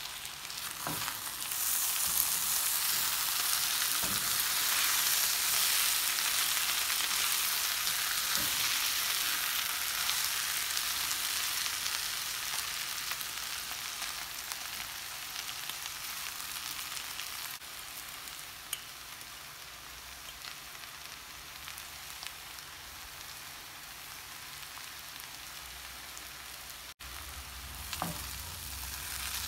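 Potatoes and French beans frying in oil in a pan, a steady sizzle that is loudest in the first ten seconds or so and then eases off. A few soft knocks of a silicone spatula stirring through the vegetables, one near the end.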